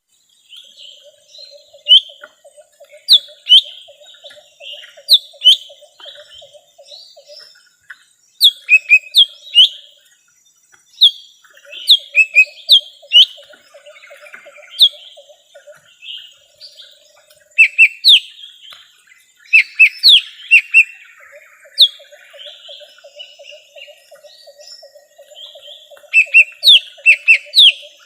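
Lesser green leafbird (cucak ijo mini) singing a varied song of loud, sharp whistled notes that swoop up and down in pitch, given in quick runs, as a lure call for wild leafbirds. Beneath it a low, rapid pulsing trill comes and goes in runs of several seconds.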